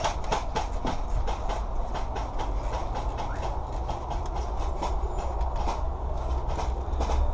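Footsteps and rattling gear of a player moving on foot: a quick, irregular run of sharp clicks and crunches, several a second, over a steady low rumble of wind and handling on a head-mounted camera.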